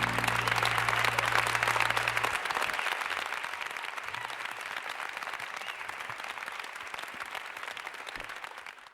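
Audience applauding, loudest in the first two seconds and slowly dying away. A held low note from the band rings under the clapping and stops about two and a half seconds in.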